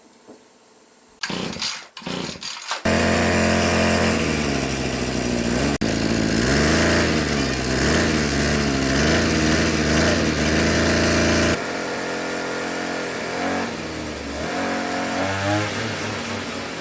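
Small petrol engine started after a few short sputters, then running loudly with the revs going up and down. About twelve seconds in it drops to a quieter, lower run.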